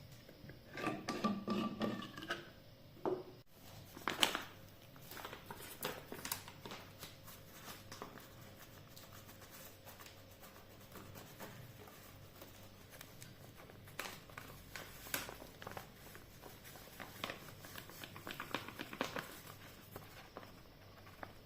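Hands handling and working small household items: scattered clicks, taps and rustles, with a brief pitched scrape in the first couple of seconds.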